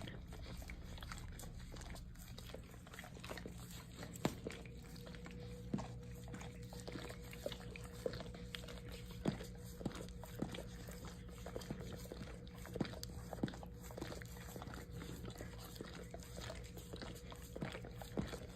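Two dogs, one a beagle, licking each other: irregular wet smacking and lapping clicks over a steady low hum.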